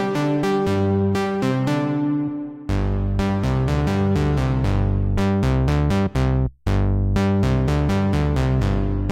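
Waldorf Pulse 2 monophonic analog synthesizer playing a fast sequenced line of short plucked notes, each with a bright attack that quickly darkens. After a short dip about a third of the way in, a deeper, heavier bass line takes over, with a brief gap about two-thirds through.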